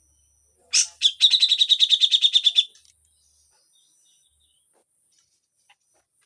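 Grey-cheeked bulbul (cucak jenggot) giving a harsh call: one sharp note, then a fast rattling series of about ten notes a second lasting about a second and a half.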